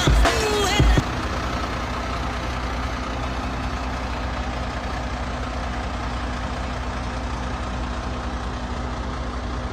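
Truck engine idling steadily with a low, even hum, after a second of music cuts off about a second in.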